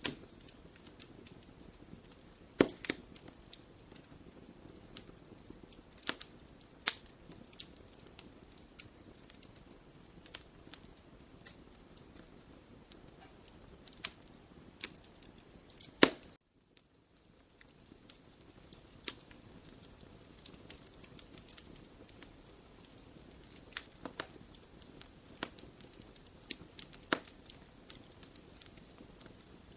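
Wood fire in a fireplace crackling, with irregular snaps and pops over a low hiss; two sharp pops stand out, one about two and a half seconds in and one just past the middle.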